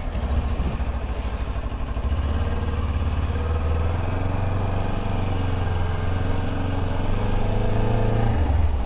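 Kawasaki Ninja 400's parallel-twin engine running steadily, getting a little louder about two seconds in.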